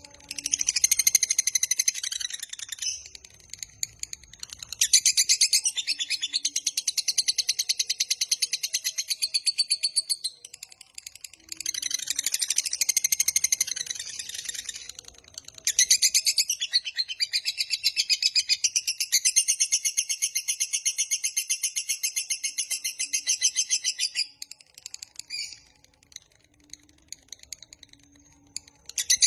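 Lovebird giving its long 'ngekek panjang' song: bouts of rapid, high chattering trills lasting several seconds each, with short breaks between. The longest bout goes on for about eight seconds.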